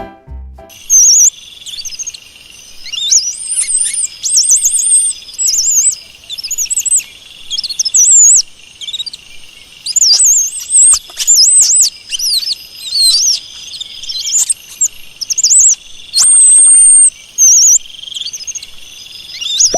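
Small birds chirping, many quick high sweeping calls in rapid runs over a steady high buzz.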